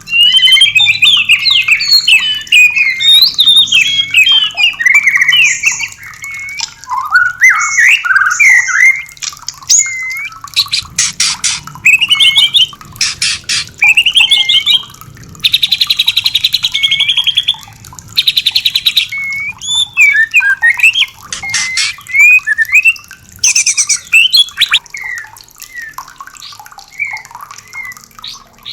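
White-rumped shama singing a fast, varied song of whistled phrases, broken around the middle by rapid rattles and buzzy trills.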